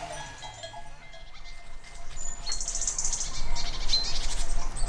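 Livestock bells clinking faintly and fading out in the first second. From about two and a half seconds in, small birds twitter in rapid high trills that grow louder toward the end.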